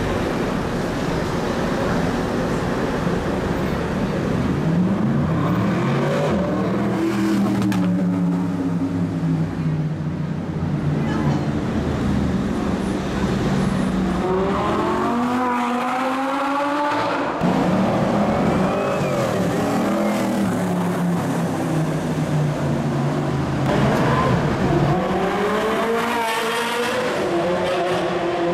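Supercar engines accelerating hard: three separate climbs in engine pitch, roughly ten seconds apart, over a steady engine drone.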